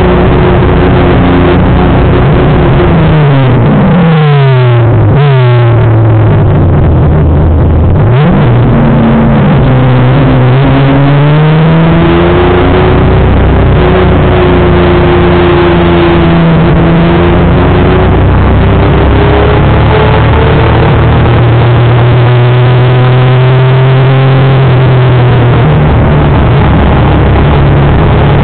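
Honda CBR250RR (MC19) inline-four engine of a racing motorcycle, heard on board at high revs. Its pitch drops for several seconds as the bike slows, rises sharply about eight seconds in as it accelerates again, and then holds high with small rises and dips.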